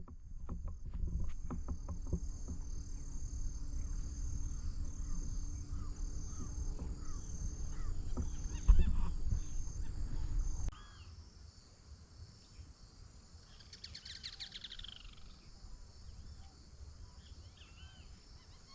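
Insects chirping in a steady, high, pulsing chorus, with short bird chirps over it. A low rumble underneath cuts off suddenly about ten seconds in, leaving the insects and birds alone.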